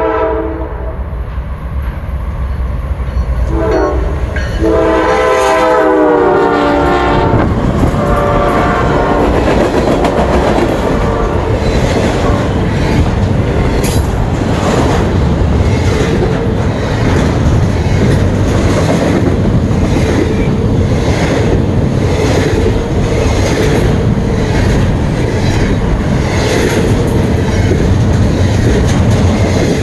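Norfolk Southern diesel freight train passing. The locomotive sounds its horn, a short blast then a longer one of about four seconds, over a low engine rumble. Then the cars roll by with a steady, rhythmic clatter of wheels.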